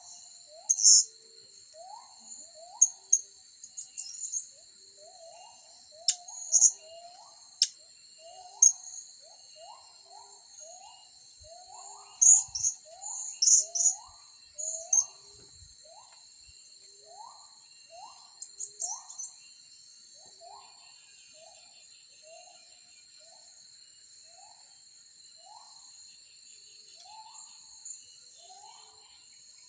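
High, sharp chirps of blue-crowned hanging parrots, coming in short clusters, over a steady high drone of insects. A low rising call repeats about once a second throughout.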